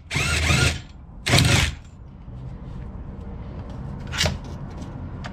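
An impact gun fires in two short bursts, about half a second each, working the rear shock absorber's mounting bolt loose. A single sharp click follows about four seconds in.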